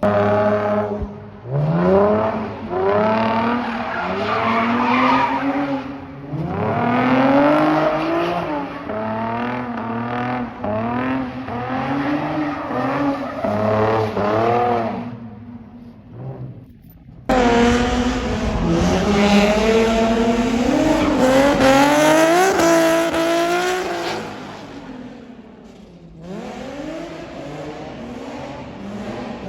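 Car engines revving hard and accelerating, their pitch climbing and falling again and again, with tyre squeal. There is an abrupt change about two-thirds of the way through.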